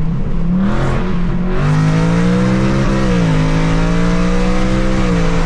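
2024 Ford Mustang GT's 5.0 L V8 running through freshly installed Kooks headers, loud under acceleration. Its exhaust note rises in pitch, falls back about three seconds in, holds steady, then dips again near the end.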